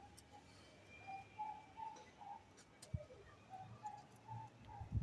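A bird calling faintly in short repeated notes at one pitch, with a single click about three seconds in.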